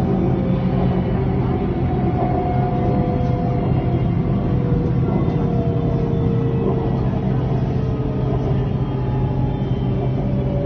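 Elevated train running, heard from on board: a steady rumble with faint whines that slowly drop in pitch.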